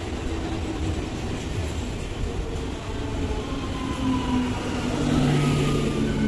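ICF EMU local train with Medha electrics running past close by without stopping, its coaches rumbling steadily over the rails with a hum of steady tones on top. It grows louder about five seconds in.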